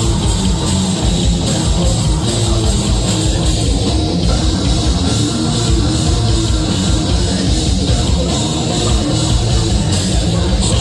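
A heavy rock band playing live and loud, with electric guitars and drums.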